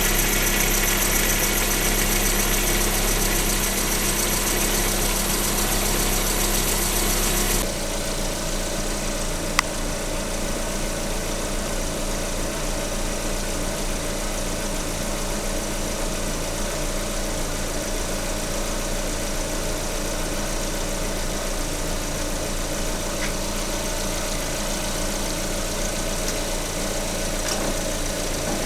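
Lada 21127 1.6-litre 16-valve engine idling, listened to through a mechanic's stethoscope at the timing-belt rollers and water pump. The water pump sounds normal to the owner. About eight seconds in the sound changes abruptly to a quieter, steadier hum with a single click soon after, as the probe is moved.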